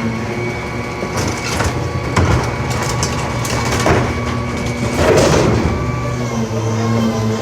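Pak-Mor rear-loader garbage truck compacting heavy trash: several sharp cracks and crunches of breaking debris over the steady hum of the truck's engine.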